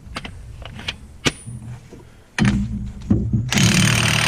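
Cordless impact wrench tightening the wheel hub nut on a side-by-side: a few clicks and clanks, then the motor spins up about two and a half seconds in and the wrench starts hammering loudly about a second later.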